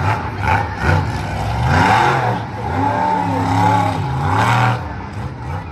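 Monster truck engine revving hard, its pitch rising and falling several times as the throttle is worked.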